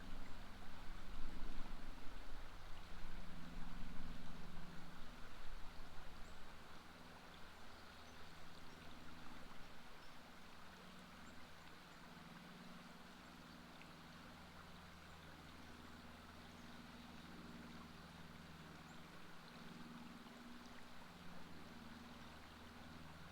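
River water flowing, with a low steady hum underneath; the first six seconds are louder and rougher before it settles.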